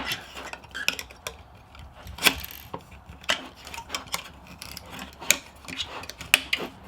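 Irregular metallic clicks and clinks of a hard disk's platters and metal parts being handled and worked with tools during disassembly.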